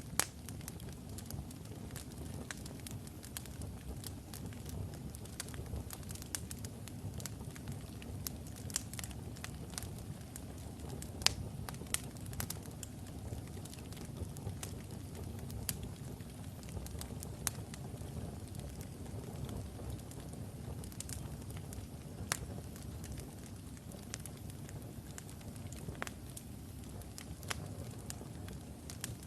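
Wood logs burning in a fireplace: a steady low flame rush with frequent irregular crackles and a few louder pops.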